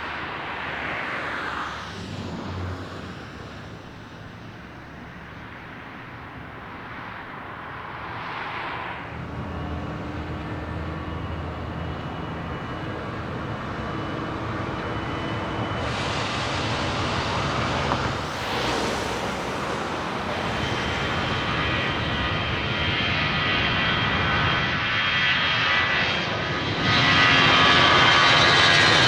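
Airliner's jet engines growing steadily louder as the aircraft approaches, with a high whine coming in about halfway through and a sharp rise in loudness near the end.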